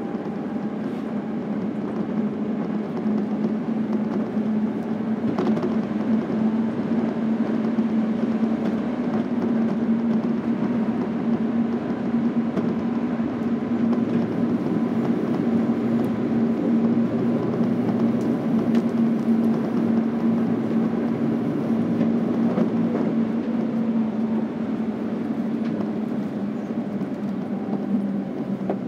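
Inside a running Keikyu Airport Express electric train: the steady rumble of the car in motion with a continuous low hum, which shifts down slightly about three-quarters of the way through.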